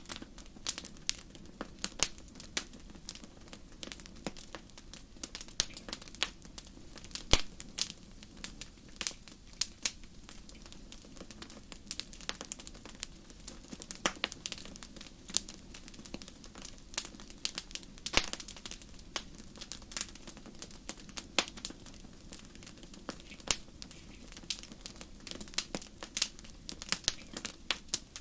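Wood fire crackling: irregular sharp pops and snaps from burning logs, several a second, over a low steady rush of flame.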